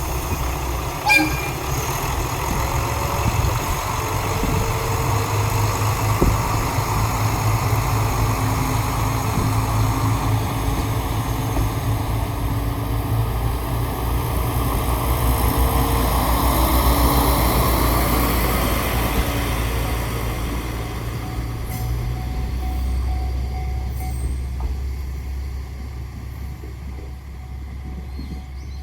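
Diesel railcar running on the line, its engine rumbling steadily and growing louder before easing off. A short, sharp sound stands out about a second in.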